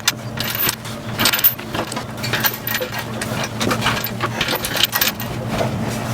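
Irregular metallic clinks and rattles of tools and metal parts being handled during engine removal, over a steady low hum.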